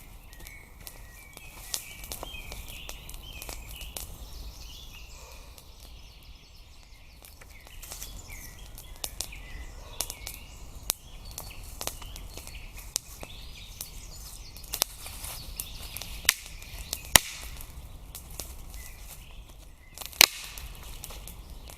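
Small birds chirping, mostly in the first half, with sharp snaps scattered throughout; the loudest snaps come near the end.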